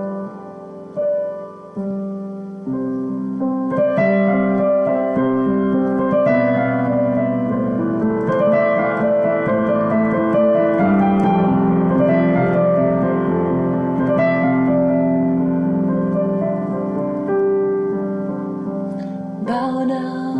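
Solo piano improvising slow, sustained chords, picked up by a mobile phone. It starts soft and fills out with fuller chords from about three seconds in.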